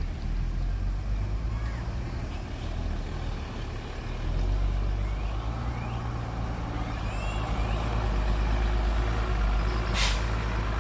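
Heavy diesel machinery engine running with a deep, steady drone that grows louder about four seconds in, as if under load. A short hiss comes near the end.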